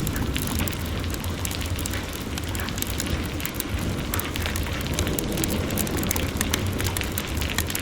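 Crackling fire with many quick, sharp pops over the steady hiss of heavy rain.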